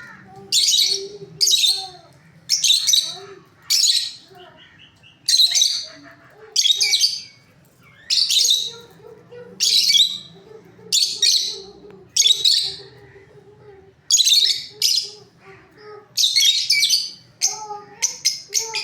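Pet parrot making loud, harsh screeching calls, about one a second, coming in a quicker run near the end.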